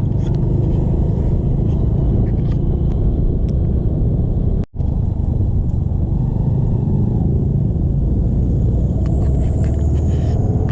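Steady low rumble of a motorcycle on the move, its engine and road noise running continuously, with a brief dropout about halfway through.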